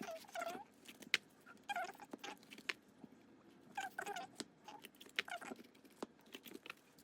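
Photocards in plastic sleeves being handled and slid between binder pages: repeated short squeaks of plastic rubbing on plastic, mixed with small sharp clicks and taps.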